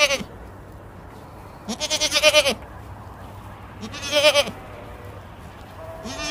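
Goats bleating: wavering calls under a second long, about one every two seconds, over a steady low hum.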